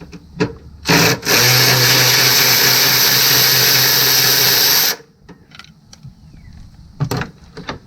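A power tool runs steadily for about four seconds, undoing the second 15 mm bolt of a dog-bone motor mount, with a few sharp clicks of the tool and socket before and after.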